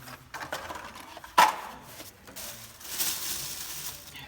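Bolts and pins for a tractor's three-point hitch being handled: small clicks and rustling, with one sharp knock about a second and a half in.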